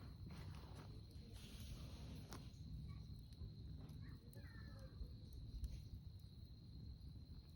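Faint wood campfire crackling, with scattered sharp pops, over a steady high-pitched insect trill.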